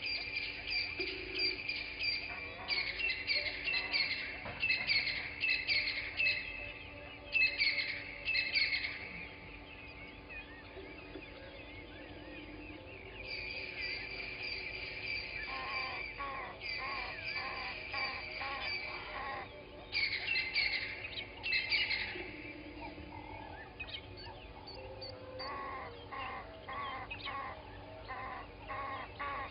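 Several wild birds singing and calling together in a morning chorus: quick repeated high chirps and trills throughout, with a lower run of repeated notes joining about halfway and again near the end.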